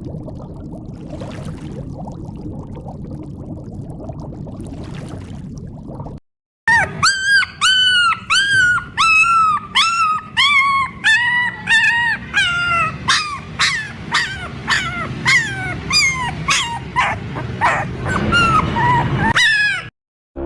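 A steady rushing noise for the first few seconds, then after a short break an animal's high-pitched yelping calls, each one rising and falling, repeated about twice a second and coming closer together near the end.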